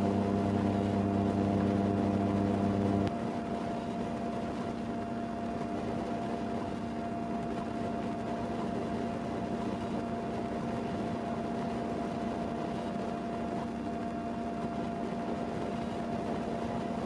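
Steady hum and hiss of an idling vehicle; a deeper part of the hum cuts off about three seconds in, leaving a thinner steady tone over the hiss.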